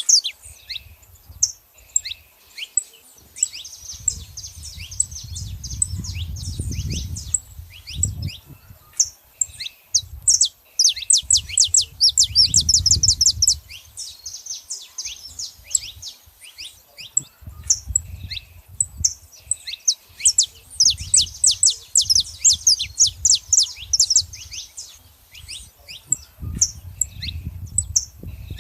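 Saffron finches singing and calling: runs of quick, high, downward-sweeping chirps strung into fast trills, with short gaps between phrases. A low rumble comes and goes beneath them.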